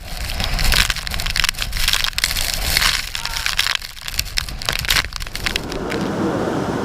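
Hurricane-force eyewall wind with driving rain: a low rumble under dense, irregular crackling hits, which give way about five and a half seconds in to a steadier rushing of wind.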